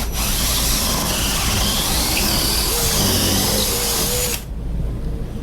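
A handheld power tool running under load for about four and a half seconds, then cutting off suddenly.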